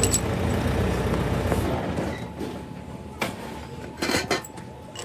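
A low, steady rumble that fades out about two seconds in, then sharp metal clinks of tools or parts being handled, once about three seconds in and a quick cluster near four seconds in.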